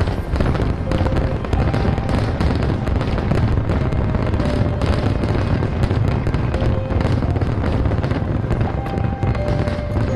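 Fireworks going off in a dense, continuous barrage of bangs and crackles, with music playing alongside.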